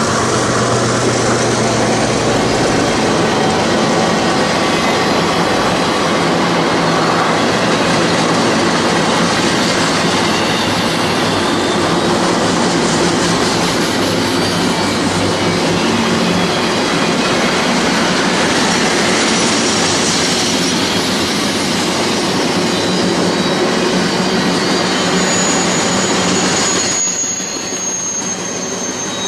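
Container freight train rolling past with a steady rumble of wheels on rail. A thin, high wheel squeal comes in near the end.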